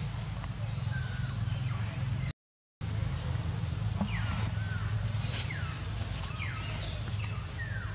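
Small birds chirping: short high whistled notes, many sliding steeply down in pitch and one brief note repeating every couple of seconds, over a steady low hum. All sound cuts out for about half a second a little over two seconds in.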